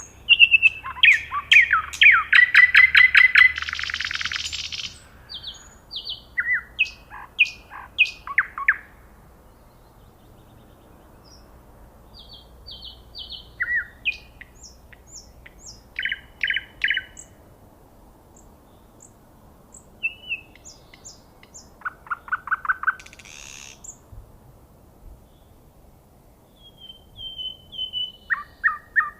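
A nightingale singing in separate phrases with pauses of a few seconds between them. The first phrase is a loud, rapid run of repeated notes that ends in a harsh rasp. Later phrases are quieter runs of clear whistles and short repeated notes.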